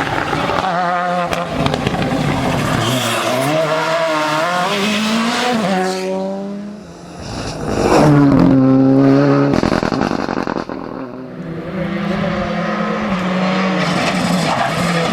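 Rally car engines at full throttle, the pitch climbing and dropping with gear changes and lifts. About eight seconds in, one car comes past loudly at high revs.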